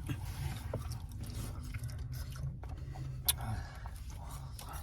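A person chewing a mouthful of chicken shawarma wrap, with scattered small clicks and one sharper click a little over three seconds in, over a steady low hum.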